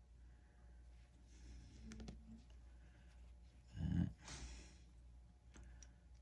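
Faint clicks of small plastic action-figure parts being handled, and a short sigh about four seconds in.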